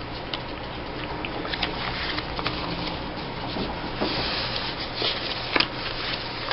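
Paper cut-outs and craft bits being handled and sorted on a table: soft rustling with scattered small taps and clicks, the sharpest a few seconds in, over a faint steady hum.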